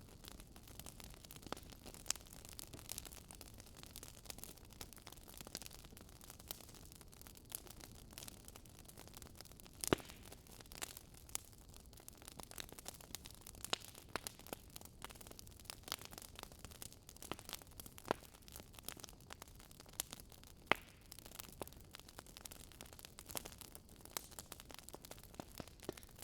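Wood fire crackling: a faint, steady hiss with frequent irregular pops and snaps, a couple of louder pops about ten seconds in and about two-thirds of the way through.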